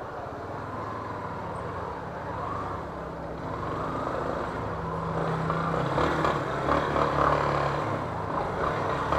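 Yamaha Fazer 250 motorcycle engine running at low speed in slow, crowded city traffic, its note rising and falling, with other vehicles' engines around it.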